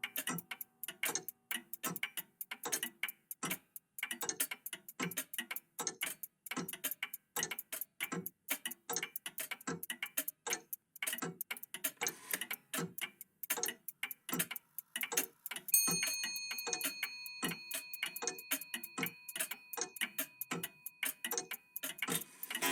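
Several old mechanical clocks ticking out of step, a dense, uneven patter of ticks. About two-thirds of the way through a single chime strikes and rings on for several seconds.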